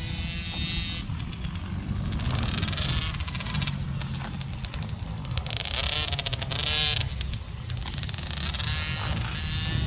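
Dirt bike engine revving up and down as it rides off, with a deep wind rumble on the microphone.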